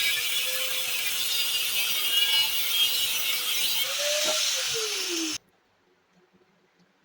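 Electric grinder grinding metal, with a steady hiss of abrasion over the motor's hum. The pitch sags as it slows about four seconds in, then the sound cuts off abruptly.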